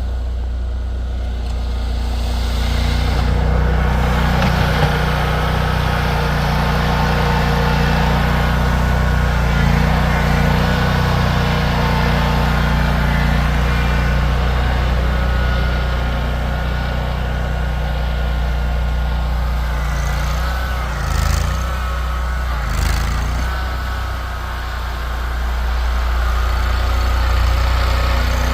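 Vehicle engine running steadily under load, with two short knocks a little over twenty seconds in.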